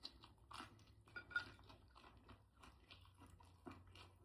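A person chewing food: faint, irregular crunching bites.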